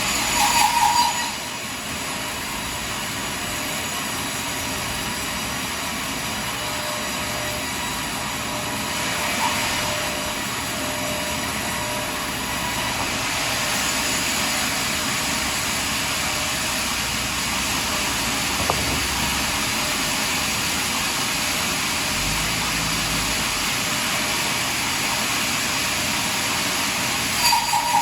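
Portable sawmill saw cutting steadily through a large pine log. It runs at an even pitch, with a louder squealing surge in the first second and again just before the end.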